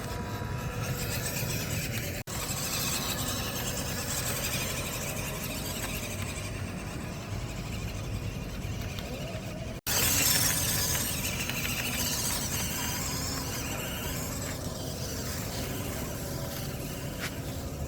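Whine of a small RC off-road truck's electric motor and gears as it drives. The sound breaks off for an instant twice and is loudest for a moment about ten seconds in.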